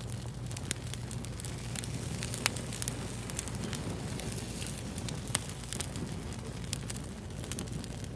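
Fire crackling: irregular sharp snaps and pops over a steady hiss, with a few louder pops, one about two and a half seconds in and another a little past five seconds.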